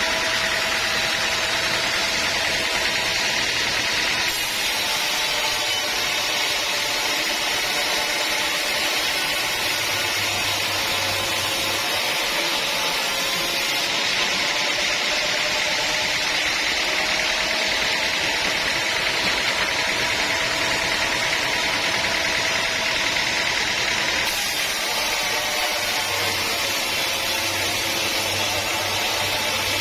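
Sawmill saw running steadily: a continuous mechanical drone with a steady whine and no breaks.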